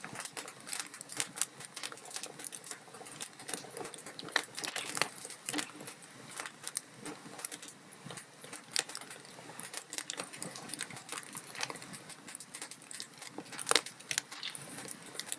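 Wood fire burning in a fireplace: a continuous run of small irregular crackles and pops over a low hiss, with a few louder snaps, one about four seconds in and one near the end.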